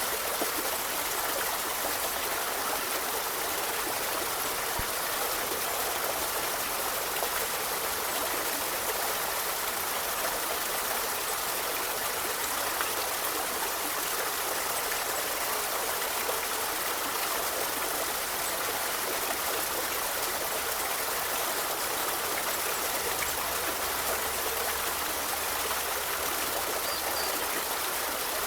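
A forest river flowing: steady, unbroken rushing and trickling of running water.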